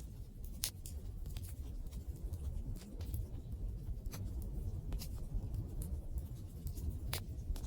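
Open wood fire burning, with irregular sharp crackles and pops over a steady low rumble. The louder pops come just under a second in and about seven seconds in.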